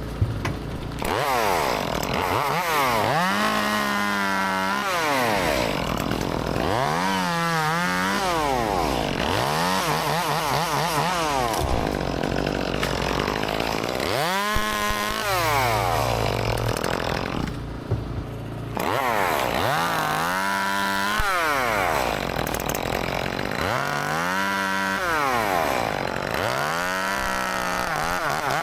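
Gas chainsaw making a series of cuts through limbs: each time the engine revs up to full speed, holds in the cut, then drops back toward idle, about every three to four seconds.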